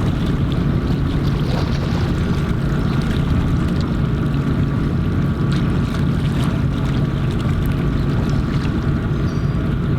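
Steady low drone of a ship's engine running, with a few even hum tones over it.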